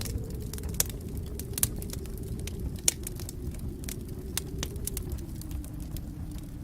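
Fire in a fireplace crackling: irregular sharp pops and snaps over a steady low rush of flame, with three louder pops in the first three seconds.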